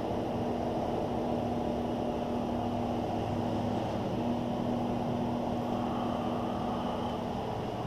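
Steady mechanical hum with a constant low tone that breaks off briefly a couple of times.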